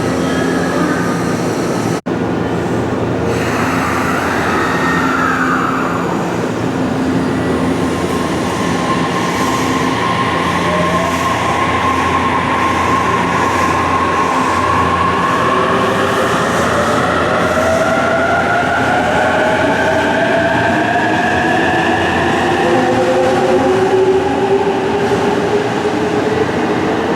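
Electric train in an underground station, running with a loud steady rumble. From about a third of the way in, its motor whine climbs in pitch in several rising steps as it accelerates.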